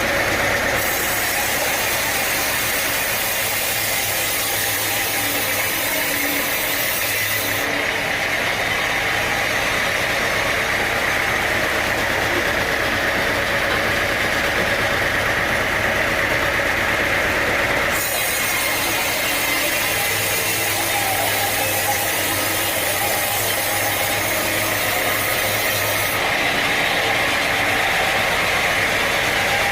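Sawmill machinery running steadily, an engine drone with sawing noise over it. The sound changes abruptly a few times.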